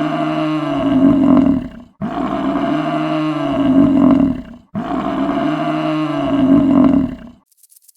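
A large animal's deep, drawn-out roaring call, the same call sounding three times in a row, each about two and a half seconds long, with a brief break between.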